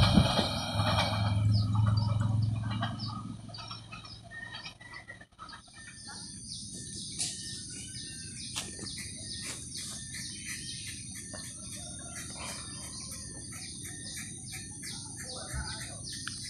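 A freight train of covered boxcars rumbling away, its low running noise fading over the first four seconds. After a break, birds chirp over a steady high-pitched buzz with regular ticking.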